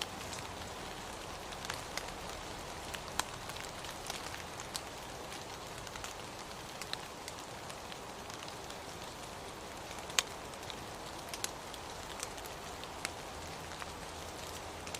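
Steady rain hiss with irregular sharp ticks of single drops landing close by, one louder tick about ten seconds in.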